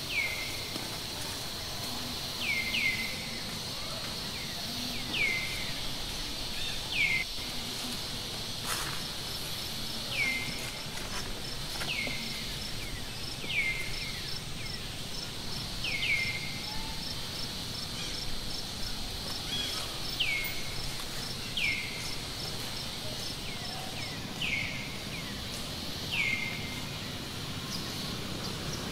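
Outdoor ambience: a bird repeats a short whistle that slides downward, about every two seconds, over a steady high insect drone.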